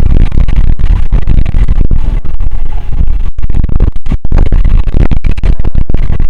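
Loud, distorted rumble of wind buffeting the microphone, broken by many brief dropouts.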